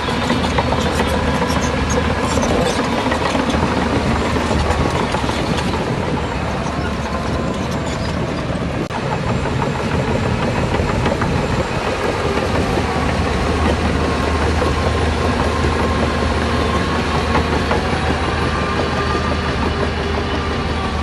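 Heavy earthmoving machinery's diesel engine running steadily under work, with a constant low drone.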